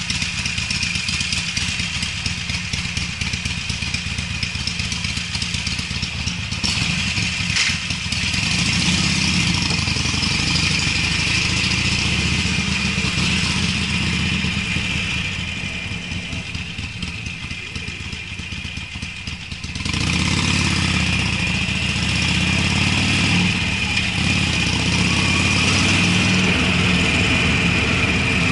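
Harley-Davidson Sportster's air-cooled V-twin running through Screamin' Eagle mufflers while riding, a deep low exhaust note under a steady hiss. The engine gets louder about 8 s in, eases off, then rises sharply again about 20 s in as the throttle is opened.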